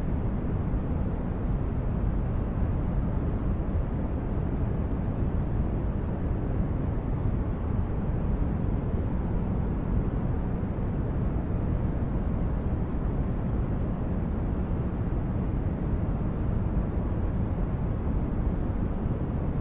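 Sci-fi spaceship ambience: a steady, deep rumbling hum of brown-noise-like engine drone, even throughout with no distinct events.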